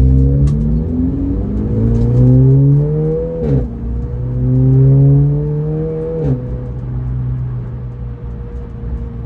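Race car engine heard from inside the cabin, pulling through the gears. The revs climb, drop sharply at an upshift about three and a half seconds in, climb again, drop at a second upshift about six seconds in, then hold steady at cruise.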